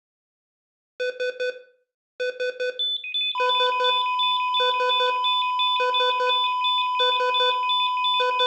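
Electronic medical-monitor-style alarm. Shrill beeps come in quick bursts of four, starting about a second in and repeating roughly once a second. A little over three seconds in, a steady unbroken high tone joins them and holds.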